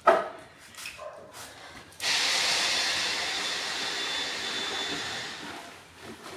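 A sharp knock, then about two seconds later a loud, steady hiss that starts abruptly and fades out after about three and a half seconds.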